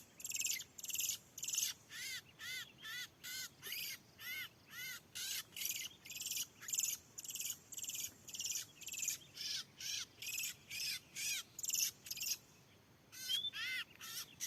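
Oriental magpie-robin (kacer) calling: a harsh, buzzy note with an arched chirp, repeated very regularly about three times a second, with a brief break near the end.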